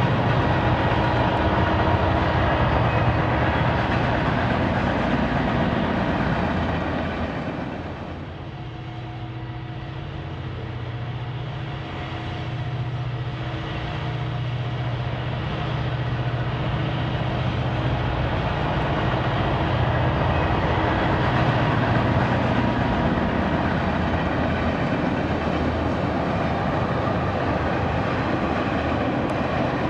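HO-scale model BNSF diesel train running past: a steady engine rumble with wheel clatter on the track. The sound dips about a quarter of the way in and builds back up.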